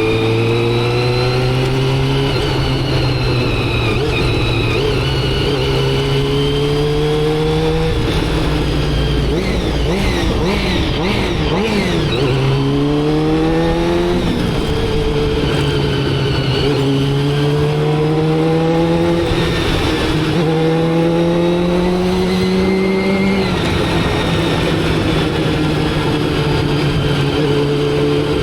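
Motorcycle engine running under load, its pitch climbing steadily and then dropping back at each gear change, about seven times. Around the middle the pitch wavers up and down for a few seconds before it climbs again.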